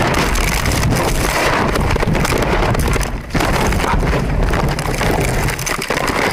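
A moving vehicle heard through its dashcam microphone: loud, rough wind and road noise, briefly dropping away about three seconds in.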